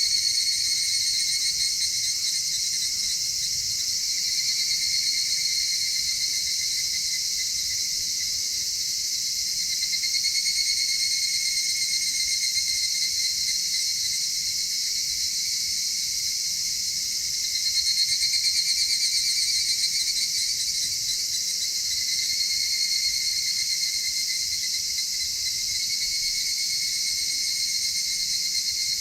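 A dense chorus of singing insects, a steady high-pitched trilling that swells and eases every few seconds.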